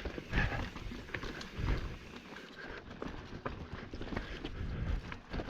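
Ibis Ripmo mountain bike rolling over a rocky trail: irregular knocks, clicks and clatter from the tyres, chain and frame hitting rocks, over a low rumble.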